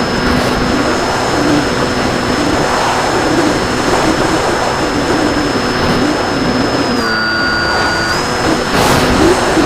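RC plane in flight: a steady motor and propeller whine over loud wind rush. The whine dips slightly in pitch for about a second, a couple of seconds before the end.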